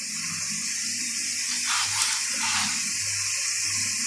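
Chopped onion, green pepper and chillies frying in oil in a pan, giving a steady sizzling hiss with a few gentle swells.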